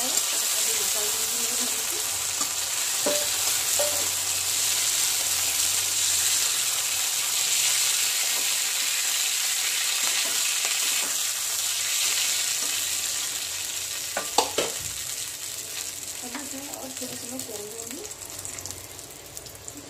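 Okra sizzling as it fries in oil in a steel kadai, stirred with a metal spatula that scrapes and clicks against the pan now and then. The sizzle fades over the last several seconds once the okra is lifted out, and a single sharp knock of metal about 14 seconds in is the loudest sound.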